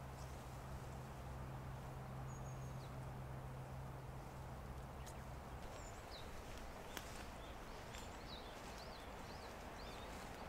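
Faint outdoor ambience with small birds chirping in short, high rising-and-falling notes, mostly in the second half, several in quick succession near the end. Under them is a low steady hum that stops about halfway, plus a few soft ticks.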